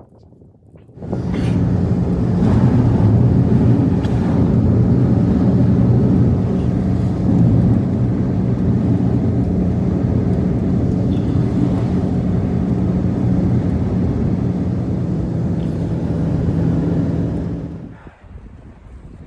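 A motor running steadily with a low hum, starting abruptly about a second in and cutting off shortly before the end.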